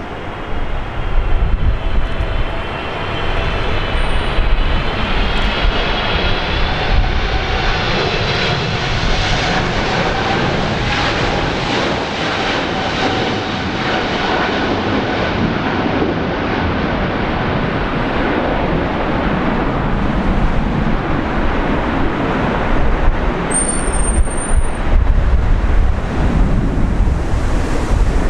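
Boeing 777 airliner's twin jet engines running at high thrust as it passes and climbs away in a go-around, with a whining engine tone over a steady jet rumble. Gusts of strong wind buffet the microphone throughout, and a brief high whistle sounds about 24 seconds in.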